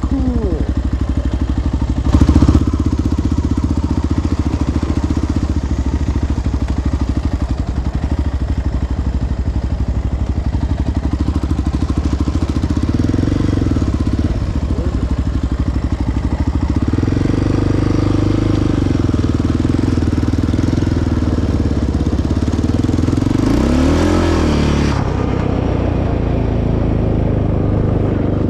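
Single-cylinder four-stroke ATV engine running at low trail revs, the revs rising and falling several times as the throttle is worked. A single loud knock comes about two seconds in.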